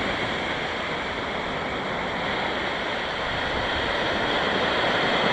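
Ocean surf breaking and washing ashore in a steady, continuous rush that eases slightly, then builds again near the end.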